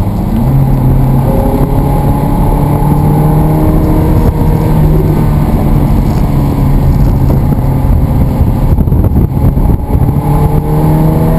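Sports car engine heard from inside the cabin, accelerating hard with its pitch climbing steadily. About ten seconds in the pitch drops at a gear change and starts climbing again.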